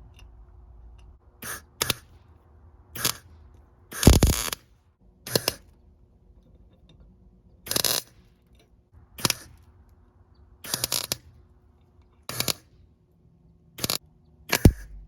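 MIG welder laying a series of short tack welds on steel chain links, about eleven crackling bursts a second or so apart, each under a second long, the one about four seconds in the longest and loudest.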